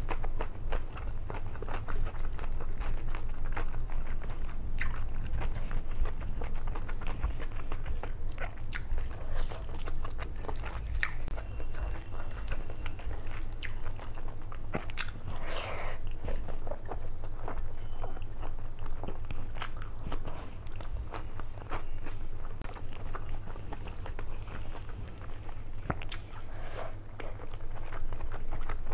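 Close-miked chewing and wet mouth sounds of someone eating mutton biryani by hand: many small clicks and smacks, with a steady low hum underneath.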